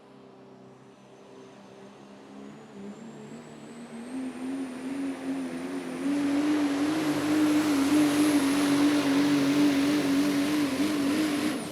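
Super stock diesel pulling truck running at full power while pulling a sled, its engine building up over the first few seconds and then running hard and loud, with a high whine rising steadily in pitch. The sound cuts off suddenly near the end as the pull finishes.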